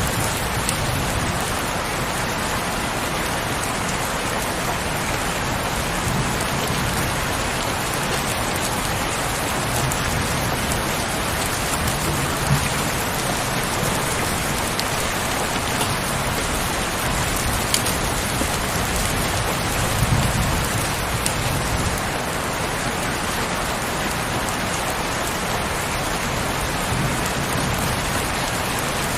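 Steady heavy rain, a dense even hiss of falling drops. Now and then a sharper single drop hit stands out, and there are a few brief low rumbles.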